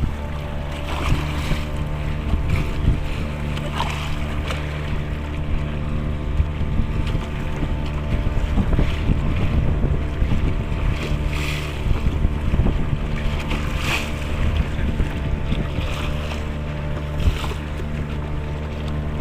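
A boat's engine drones steadily, heard from on board, with wind buffeting the microphone and water noise rising briefly every few seconds.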